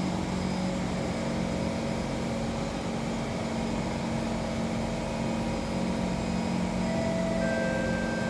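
Kawasaki C151 MRT train running through a tunnel: a steady low hum from the traction equipment over wheel rumble, with a higher whine joining about seven seconds in.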